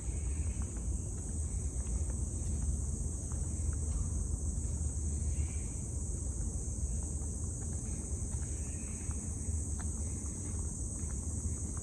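Insects droning steadily in a high, unbroken tone over a low rumble of wind on the microphone, with a few faint ticks.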